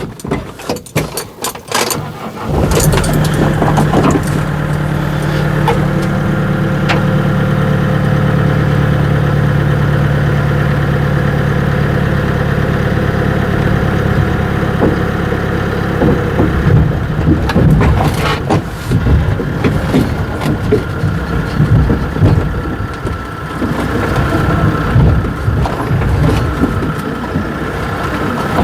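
An engine starts about two and a half seconds in and runs at a steady idle, after a few knocks at the start; in the second half its sound turns uneven, with knocks over it.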